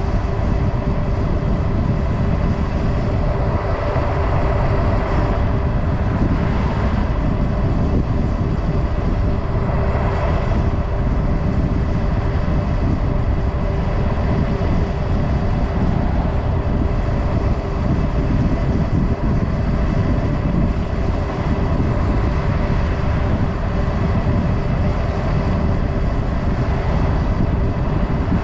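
Wind rushing over the microphone of a Super73 electric bike ridden at road speed: a steady low rumble with a constant whine above it.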